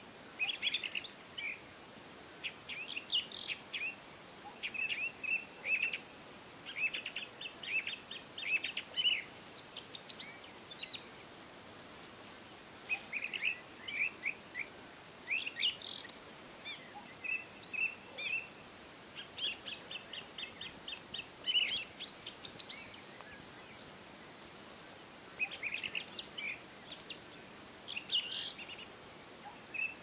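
Birds chirping and calling: short runs of quick, high notes, with a few brief lulls between phrases.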